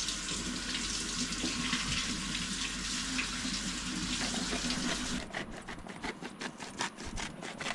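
Chicken stir fry sizzling on a barbecue hotplate, a steady hiss. About five seconds in the hiss drops away and a quick run of sharp clicks and scrapes follows.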